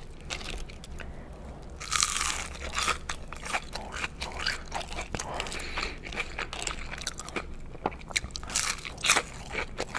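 Biting into a crispy-coated Spicy Chicken McNugget, with one loud crunch about two seconds in, then crunchy chewing made of many short crackles.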